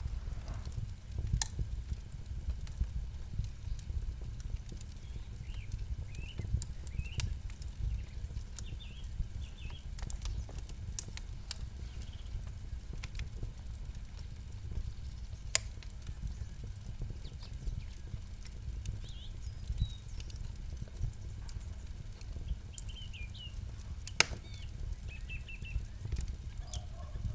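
Campfire burning with a steady low rumble and irregular sharp crackles and pops, two louder pops standing out past the middle.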